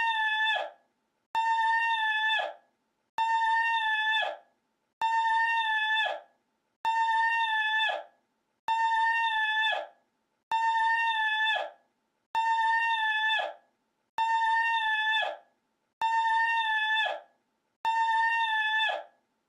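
A short, high, steady cry with a horn-like tone that falls off at its end, looped: the identical clip repeats about every two seconds, around ten times, with silence in between.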